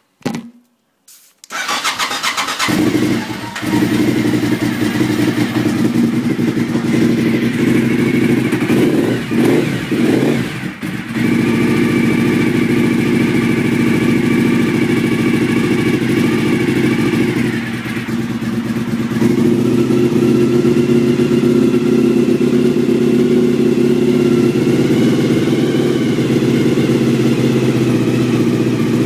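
Suzuki TL1000R's 90-degree V-twin engine being started: a short burst of cranking, then the engine catches about two seconds in and idles steadily. The sound wavers for a few seconds around ten seconds in.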